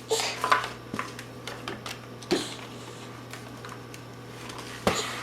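Scattered light clicks and knocks of objects being handled, a few louder ones about two and five seconds in, over a steady low hum.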